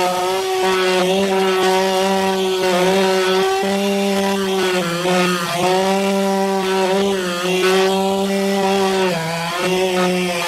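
Power saw cutting through a large log: a loud, steady pitched whine that dips briefly under load a few times, notably around four, five and nine seconds in.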